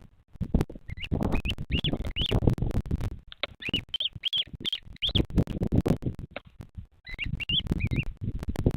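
A bird giving three runs of short, high, wavering chirps, a few notes each, over a constant low rumbling crackle.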